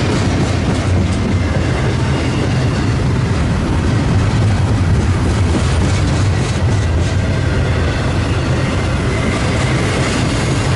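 Train passing close by, its cars rolling over the rails with a loud, steady rumble and faint clickety-clack.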